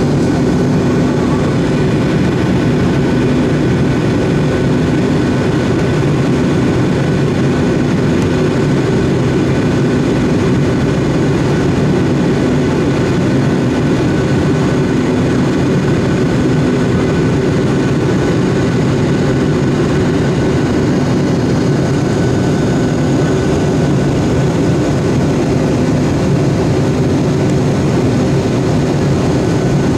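Boeing 757's twin jet engines running steadily: a loud, even noise with a few steady tones over it that neither rises nor falls.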